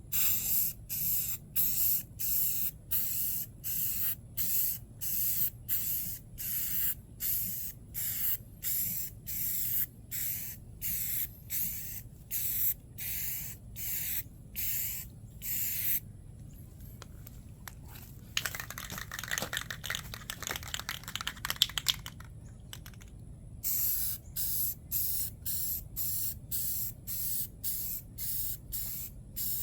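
Aerosol can of Rust-Oleum gloss spa blue spray paint, sprayed in a long run of short hissing bursts, about one and a half a second. Midway it stops for a few seconds of rattling, typical of the can being shaken with its mixing ball, and then the short bursts start again.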